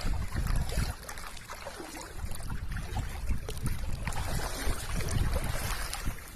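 Wind rumbling and buffeting on the microphone outdoors, with a steady hiss over it.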